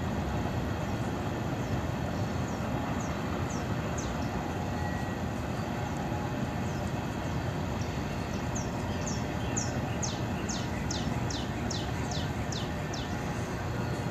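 Freight train cars rolling past at a distance: a steady rumble of wheels on rail. In the second half a bird calls a quick series of short high falling notes, about two a second.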